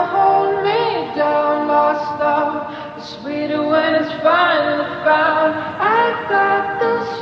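Music: a woman singing a slow melody, with little instrumental backing and her held notes wavering in vibrato.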